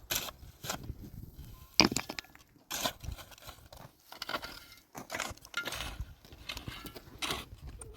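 Irregular rustling, crackling and knocking, like handwork with dry material, with one sharp knock about two seconds in.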